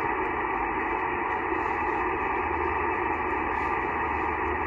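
Steady shortwave band noise hissing from a Yaesu FT-891 transceiver tuned to the 15-metre band in single-sideband mode, with no station transmitting. The hiss is narrow and muffled, cut off above the voice range by the receiver's SSB filter.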